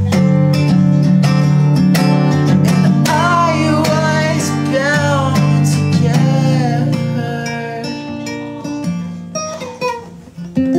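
Acoustic guitar strummed in sustained chords, with a voice singing a melody over it from about three to six seconds in. The playing grows quieter toward the end.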